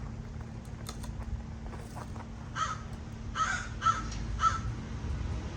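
Crows cawing: four short, harsh caws, one just before the middle and three more in quick succession after it, over a steady low hum.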